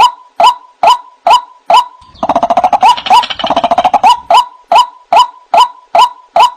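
White-breasted waterhen (ruak-ruak) calling: a loud, even series of short 'wak' notes about two and a half a second, broken for about two seconds by a fast, dense chattering run before the steady notes resume.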